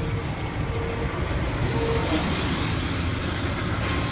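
Semi truck's diesel engine running close by, steady and loud, with a broad hiss of air starting suddenly near the end.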